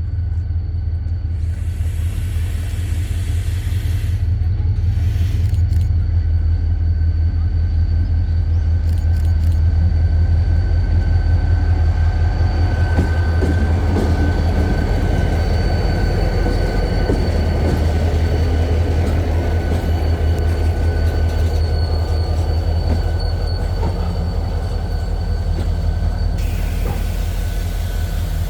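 A train running past with a heavy, steady low rumble that grows loudest around the middle, and a faint steady high whine over it.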